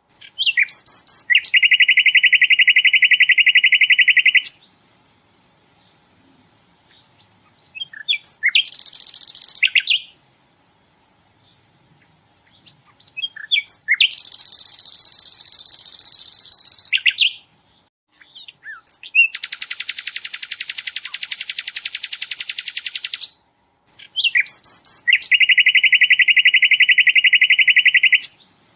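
Sikatan londo singing in rapid-fire volleys: five long bursts of very fast repeated notes, each lasting three to four seconds, some pitched low and some high, with short scattered chips in the pauses between them.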